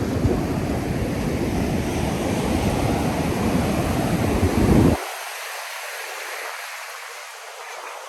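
Ocean surf washing on a beach, with wind buffeting the microphone in a heavy low rumble. About five seconds in, the rumble cuts off abruptly, leaving a quieter, even hiss of surf.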